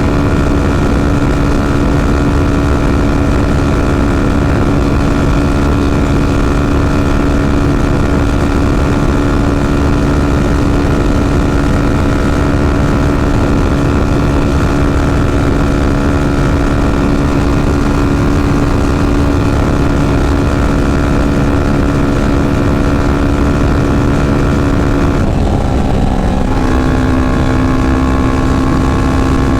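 Yamaha FZ25's single-cylinder engine running at a steady cruise, heard from the rider's seat with a low rush of wind. About 25 seconds in, its note breaks up for a second or so and then settles steady again at a slightly lower pitch.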